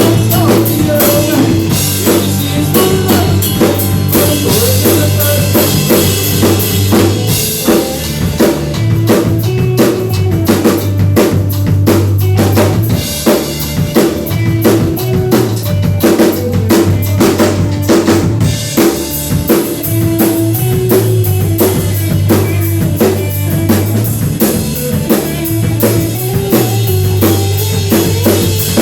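Live band music with the drum kit to the fore, kick and snare hits over a steady bass line and sustained instruments.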